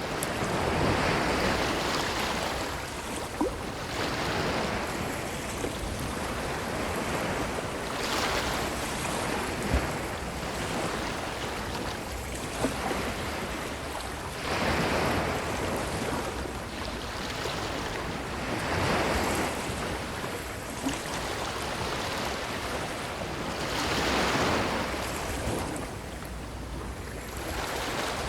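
Ocean waves washing up onto a beach, each wave a swell of rushing surf that rises and fades every four to six seconds, with a few brief clicks in between.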